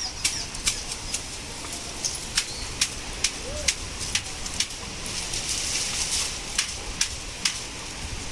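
Storm wind with scattered heavy raindrops striking close by: irregular sharp ticks, two or three a second, over a steady hiss and a low wind rumble.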